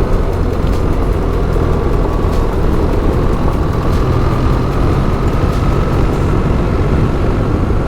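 BMW R 1300 GS boxer-twin engine running at a steady pace while the motorcycle is ridden, with heavy low wind rush.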